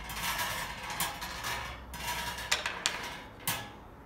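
Numbered draw balls rattling and clicking against each other in a container as they are mixed, with a few sharper clacks in the second half.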